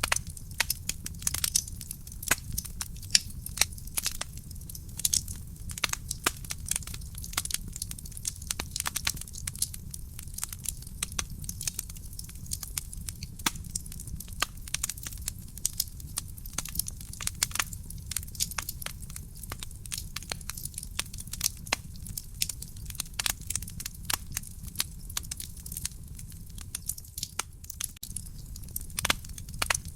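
Wood fire burning in a fireplace, crackling with many sharp irregular pops and snaps over a steady low rumble of the flames.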